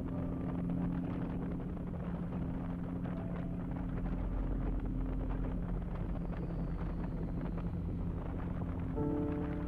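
Kawasaki Vulcan motorcycle under way, its engine running steadily under wind rushing over the camera's microphone.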